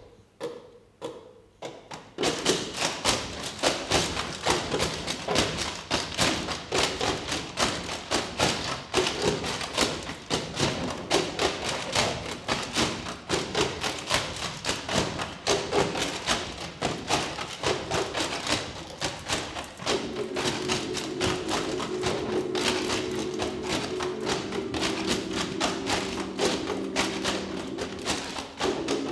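Performance percussion: a few separate taps, then about two seconds in a dense run of rapid taps and thumps. About two-thirds of the way through, a low held chord joins in under the tapping.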